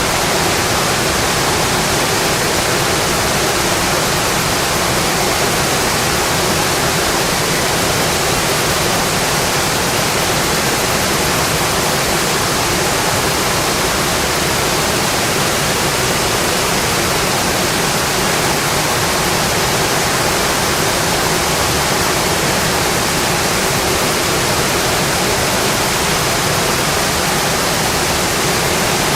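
Steady heavy rain falling on a window, an even unbroken hiss.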